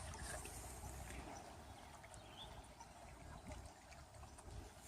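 Faint water trickling and lapping around a canoe, with a few light ticks.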